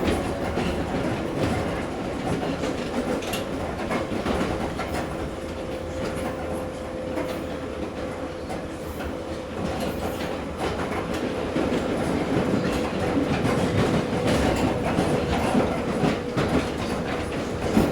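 Ezh3 metro train running between stations, heard aboard: a steady rumble of wheels on rails with scattered knocks and a steady hum, growing a little louder in the last few seconds.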